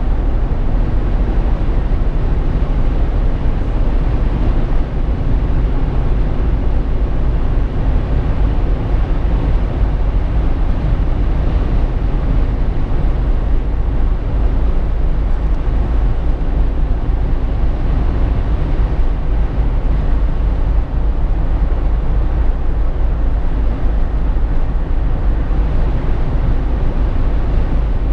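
Steady road noise inside the cabin of a Jeep Wrangler JK while driving: a deep, even rumble of engine and tyres with no breaks or changes.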